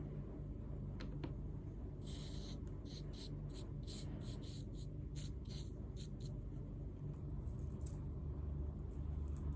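Light scratching and ticking of a hand tool working over a sand-art sheet, a quick run of small scratches through the middle, over a steady low hum.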